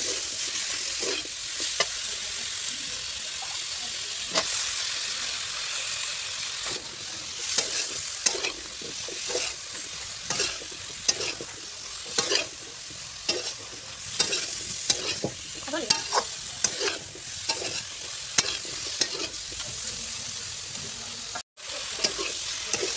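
Sem beans and potato pieces sizzling in oil and spice paste in a metal kadhai, stirred with a metal spatula that scrapes and clicks against the pan over a steady frying hiss. The sound cuts out for a split second near the end.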